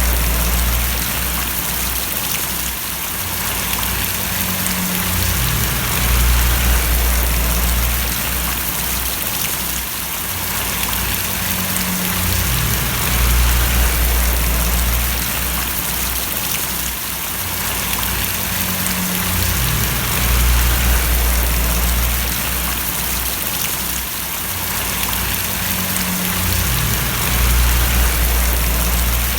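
Steady rain splashing as an even hiss, with a low rumble underneath that swells and fades about every seven seconds.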